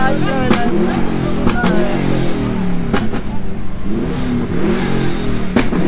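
Car engine revving hard, its pitch rising and falling over and over, with a few sharp cracks mixed in.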